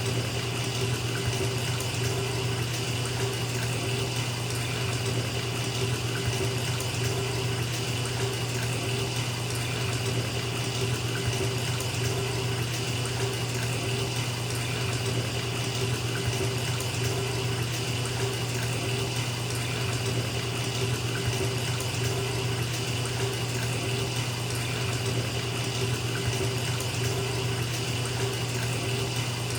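Bathtub tap running steadily, water pouring into a filling tub with a constant rushing splash.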